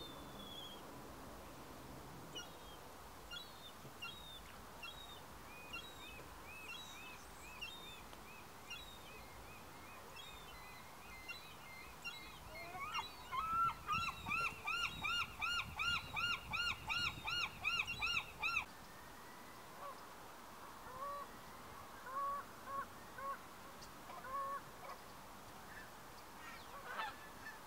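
Birds calling over open water. A faint run of short, high, rising-and-falling call notes comes first. About halfway through, one bird gives a loud, evenly paced series of about two to three calls a second for around six seconds, and a few scattered calls follow near the end.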